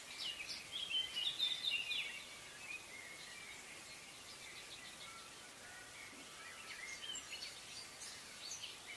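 Birds chirping faintly: a quick flurry of short calls in the first couple of seconds, then scattered calls, over a low hiss.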